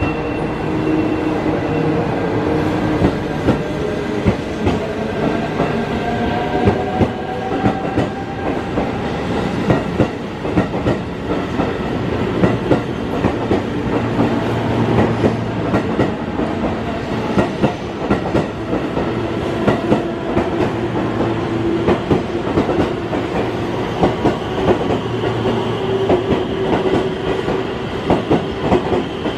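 Electric train running through a station, its wheels clacking rapidly over rail joints and points under a steady rumble, with a motor whine that rises slowly in pitch over the first ten seconds or so.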